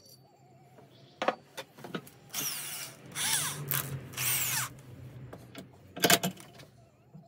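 Power drill run in three short bursts, each about half a second long, with sharp knocks a little before and after.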